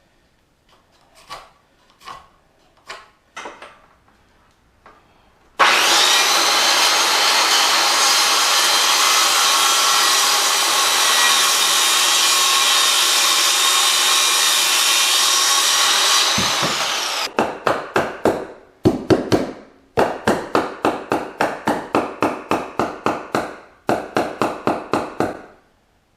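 A 2x4 being cut to length: a power saw runs steadily for about ten seconds and winds down, then quick back-and-forth handsaw strokes follow, about three a second, in several short runs. A few light clicks of handling the wood come before the saw starts.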